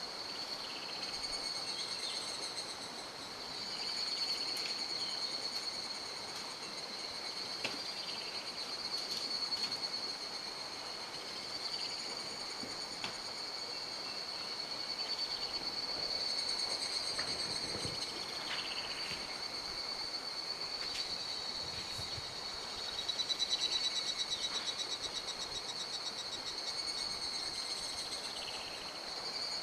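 Insects trilling in a steady, high-pitched chorus over the rushing of a mountain stream, with occasional short chirps.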